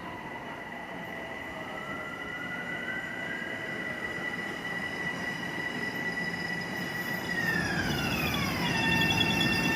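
Electric commuter train pulling into a station: a steady high whine from its electric drive drops in pitch about eight seconds in as the train slows, over a rumble of wheels on rail that grows louder as it approaches.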